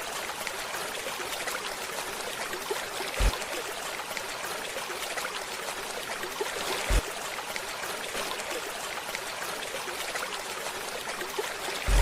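Water running steadily in a trickling stream, with two short low thumps about three and a half seconds apart.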